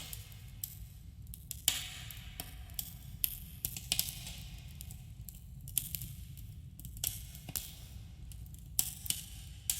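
Wood campfire burning, with irregular sharp crackles and pops over a low steady rumble, and brief hissing flares.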